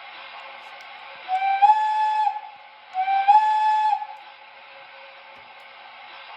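Two steam-whistle blasts from an O scale model steam locomotive's onboard sound system, each about a second long, sliding up in pitch as it opens and then holding steady, the second starting about three seconds in. A steady hiss runs underneath.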